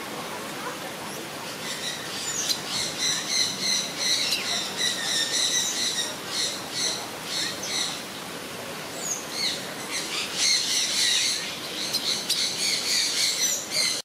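Birds calling: rapid, repeated short high chirps, several a second, starting about two seconds in. They ease off briefly around the middle, then pick up again, over a steady rushing hiss.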